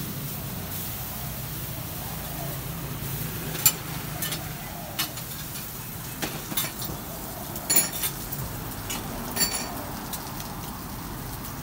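Food frying on a hot griddle, a steady sizzle, with sharp clinks and knocks of a metal spatula on the pan several times from about a third of the way in.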